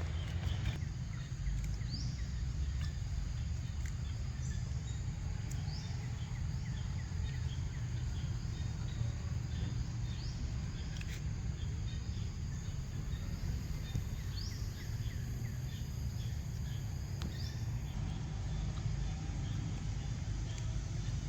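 Outdoor ambience: a steady low rumble, with short high rising bird chirps every few seconds.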